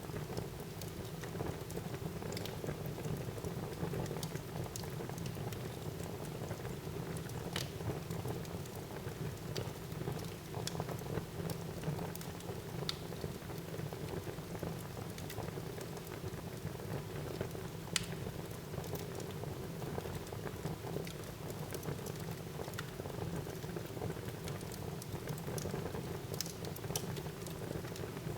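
Wood fire burning in a fireplace: a steady low rustle of flames with irregular sharp crackles and pops from the burning logs, two of them louder, about a quarter and about two thirds of the way through.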